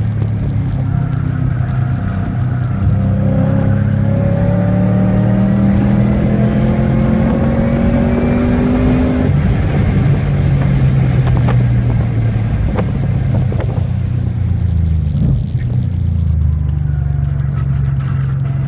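2011 Cadillac CTS-V Sportwagon's supercharged 6.2-litre V8, heard from inside the cabin at full throttle. The engine note climbs for several seconds, then drops sharply with an upshift about nine seconds in. It holds steady at speed, then falls away as the car brakes hard for a slow corner near the end.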